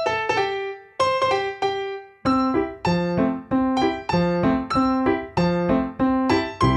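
Background music played on a piano or electric piano: a melody of single struck notes, one every third of a second or so after about two seconds in, with short pauses near the start.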